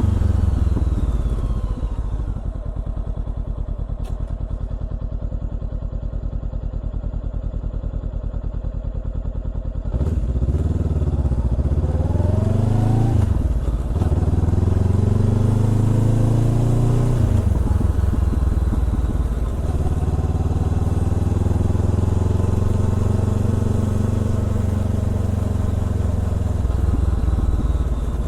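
Honda CBR400R parallel-twin engine through a Trick Star Ikazuchi slip-on exhaust. It slows down and runs steadily at low revs for several seconds, then pulls away with the revs rising and dropping at a couple of gear changes, and settles to a steady cruise.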